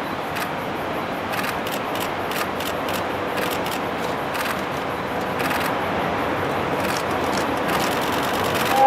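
A DE10 diesel locomotive and its train approaching: a steady rumble that grows slowly louder, with many scattered sharp clicks over it.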